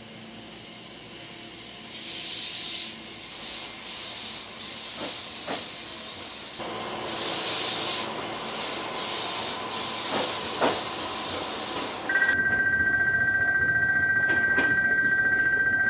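JR Kyushu 819 series DENCHA battery-electric train standing at the platform, with a steady hiss and a few sharp clicks. About twelve seconds in, a loud, steady two-tone electronic ring starts and keeps going.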